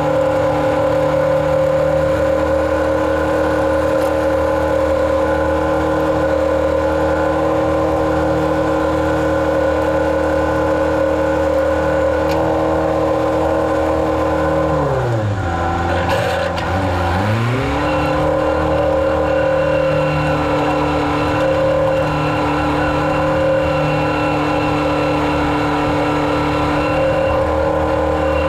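Engine of a farm rig spreading chicken litter, running steadily under load. About halfway through its pitch drops sharply for a couple of seconds, then climbs back to working speed.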